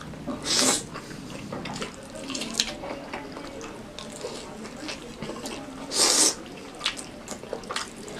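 Close-miked eating sounds: wet chewing and mouth clicks, with two loud, short noisy bursts about half a second in and about six seconds in.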